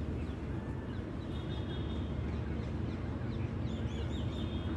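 Birds chirping in short high calls, with a cluster of quick chirps near the end, over a steady low rumble.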